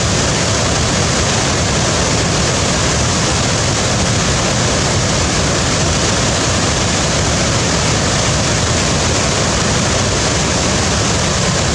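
Waterfall: a steady, loud rush of falling water that holds even throughout, with no breaks or changes.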